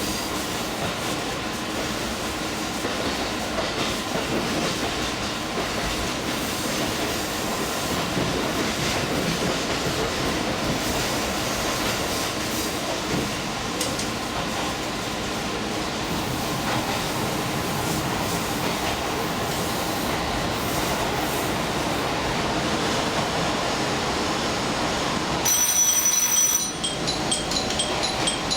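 Limited express train running steadily as it comes in to its terminus. Near the end a high squeal sounds for about a second, then a repeating electronic chime begins.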